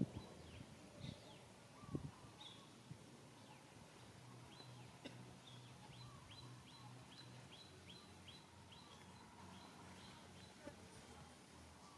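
Faint outdoor ambience with small birds chirping: many short, high notes, each sweeping downward, repeated several times a second, with a couple of soft knocks in the first two seconds.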